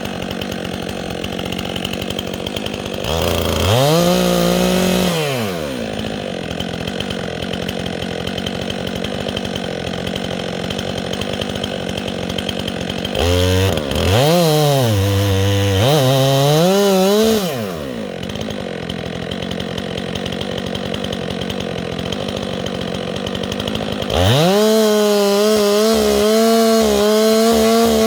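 Two-stroke chainsaw running at idle, revved up three times, each time rising in pitch, holding, then dropping back to idle.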